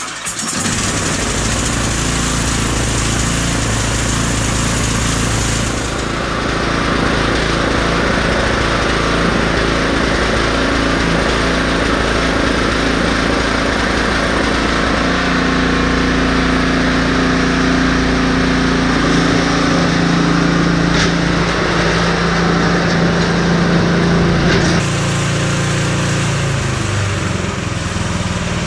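Husqvarna two-stage snowblower's engine cutting in suddenly and running loud, its engine note shifting in pitch several times as the speed changes.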